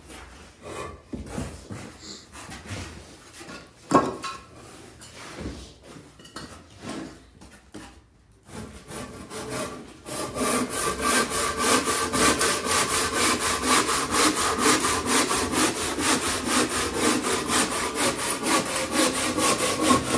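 A hand saw cutting with steady back-and-forth strokes, about four a second, starting a little before the halfway point and running loud from there. Before it come scattered knocks and taps, with one sharp knock about 4 seconds in.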